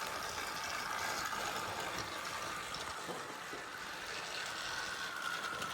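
Battery-powered Thomas & Friends Trackmaster toy train engines running around plastic track: a steady whirring of small motors and gears with a faint high whine.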